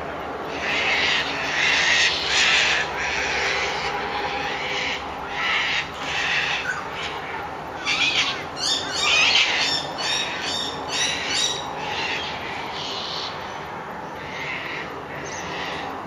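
Wild birds in their morning chatter: many harsh, squawking calls repeating one after another, with a quicker run of sharp, repeated calls in the middle.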